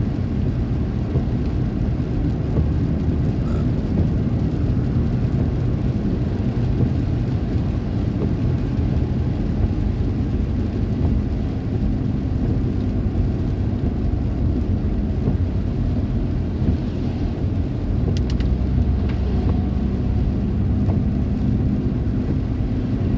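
Heavy rain: a steady, dense noise with a low rumble that does not let up.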